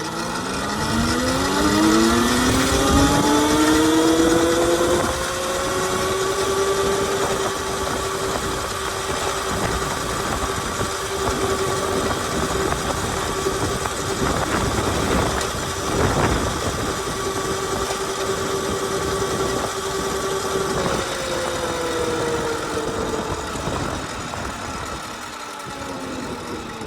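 Electric dirt bike motor whine as the Qronge X1 Spark accelerates in its mode 2 setting: the whine rises in pitch over the first few seconds, holds steady at speed, then falls away as the bike slows near the end, over a constant rushing noise.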